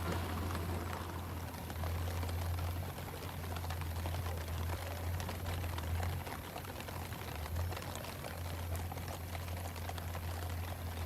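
Steady wind rumble on the microphone over a faint, even patter of water.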